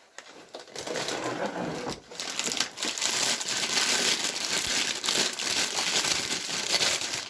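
Crinkling plastic LEGO parts bags being handled, rustling and crackling steadily as they are pulled out of the box.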